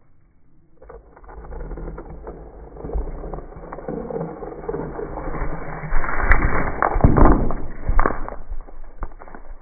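A bucket of collected rocks, pine cones, sticks and other natural bits being tipped out, rattling and clattering onto a surface. It builds steadily and is loudest about six to eight seconds in, then dies away.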